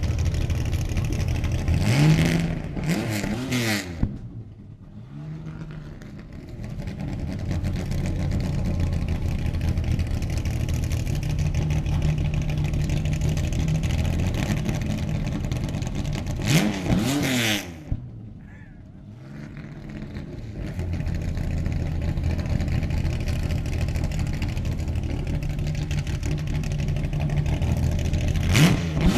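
Race car engine idling steadily, revved in short, loud blips several times: pairs near the start and around the middle and one more near the end. Each blip is followed by a moment where the engine settles quieter before its steady idle returns.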